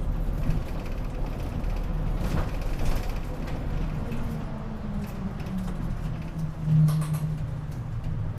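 Inside a city bus running and slowing toward a stop: the engine note falls gradually, with creaks and rattles from the body and fittings, and a brief louder hum about seven seconds in.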